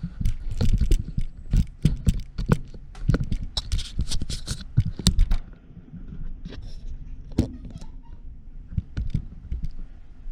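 A quick, irregular run of knocks, clicks and scrapes from objects being handled and moved about, dense for the first half and sparser after.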